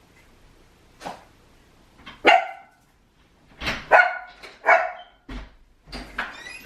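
A dog barking, about six short, sharp barks with gaps between them.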